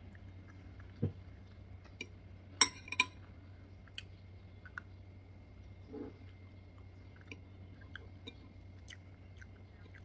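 Close eating sounds: soft chewing of pasta with small scattered clicks, and two sharp clinks about two and a half to three seconds in, metal cutlery against the glass bowl. A short hummed "mmm" comes about six seconds in, over a faint steady hum.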